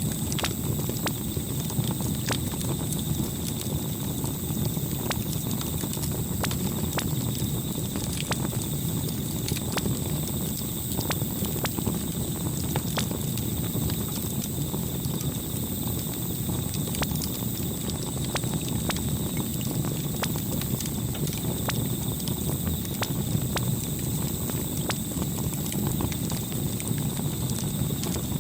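Campfire burning, with a steady low rumble of flame and many irregular sharp crackles and pops from the burning wood.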